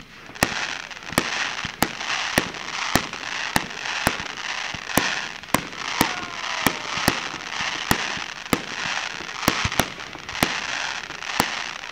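Aerial fireworks shells bursting in rapid succession: sharp bangs almost twice a second, with a steady noisy hiss between them.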